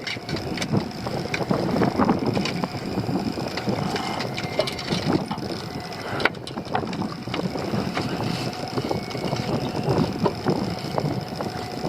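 Deck noise on a small fishing boat under way: wind buffeting the microphone over the boat's running, with scattered knocks and clatters of gear being handled.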